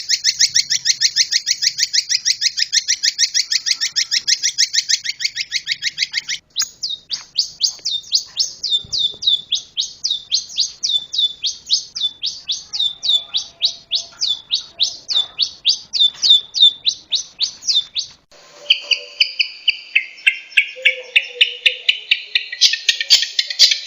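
Cendet (a shrike) singing in strings of sharp, high repeated notes. A fast rapid-fire run gives way abruptly at about six seconds to slower notes, two or three a second, and at about eighteen seconds to a different phrase.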